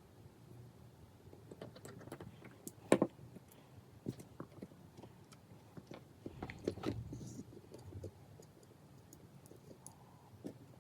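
Scattered small clicks and taps of smartphone parts and small tools being handled while a phone is put back together, with one sharper knock about three seconds in and a cluster of clicks a few seconds later.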